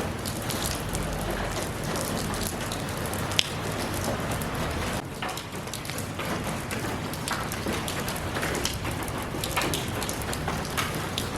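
Steady rain falling, a dense even hiss with many distinct drops pattering on a surface and one sharper drip about three and a half seconds in.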